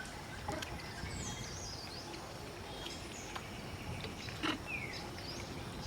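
Outdoor ambience: a steady background hiss with scattered short, high chirps and falling whistles of calling birds, and a few faint clicks.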